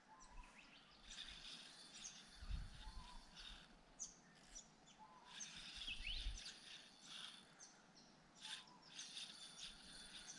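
Near silence with faint, scattered bird chirps and calls, and a couple of brief low rumbles.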